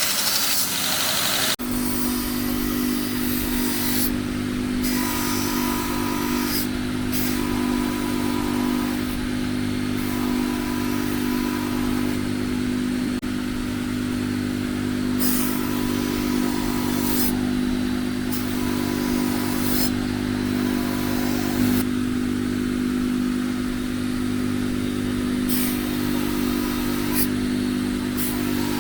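A workshop power tool's motor running steadily with a constant hum, with brief hissing passes that come and go irregularly over it.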